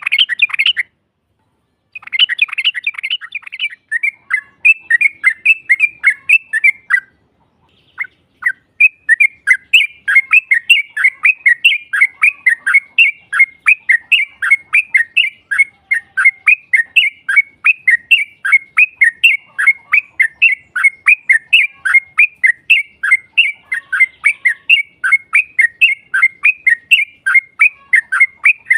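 Yellow-vented bulbul (trucukan) singing a long, rapid chattering run of quick down-slurred notes, about four a second. The song breaks off cleanly twice, about a second in and again about a quarter of the way through.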